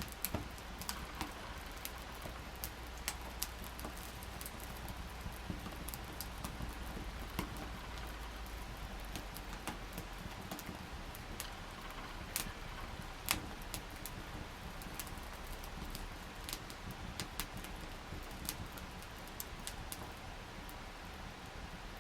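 Wood campfire crackling, with irregular sharp pops and snaps, the loudest about thirteen seconds in.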